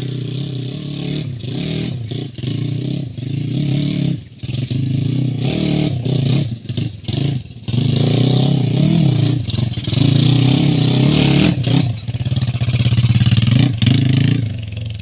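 Trail motorcycle engine revving hard, the throttle opened and shut again and again, with several brief drops in engine sound.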